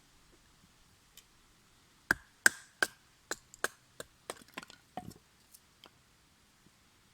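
A run of about a dozen sharp, irregular cracks and snaps, starting about two seconds in and dying away over some four seconds; the first three are the loudest.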